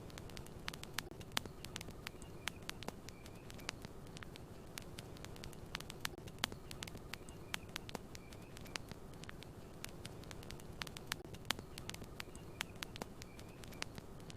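Campfire burning with a steady low rumble and frequent sharp, irregular crackles and pops. Faint short high chirps recur every second or two in the background.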